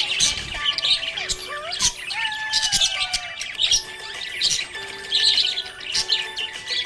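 Budgerigar chirping and warbling in quick, busy bursts of short high chirps.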